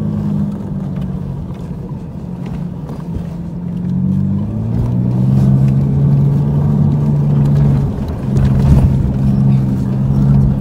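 A 4x4's engine pulling hard over sand dunes. Its note sags about half a second in, climbs as it revs up around four seconds in and holds there, then drops briefly near eight seconds.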